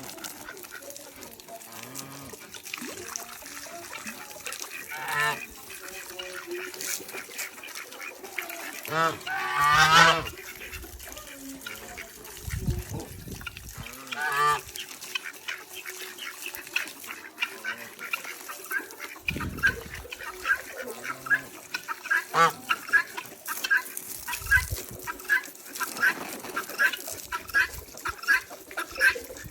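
Farm poultry calling: a few separate loud calls, the loudest about ten seconds in, then a fast run of short repeated calls, about three or four a second, over the last several seconds.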